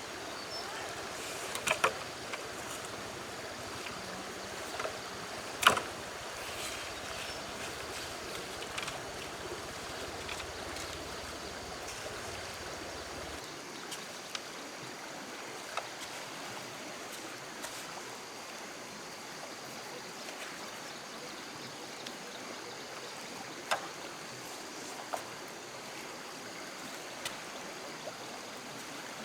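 Steady rush of flowing water, broken by a few sharp knocks, the loudest about six seconds in.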